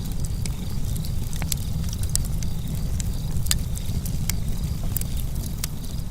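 Campfire burning: a steady low rumble from the flames under frequent, irregular sharp crackles and pops from the burning wood.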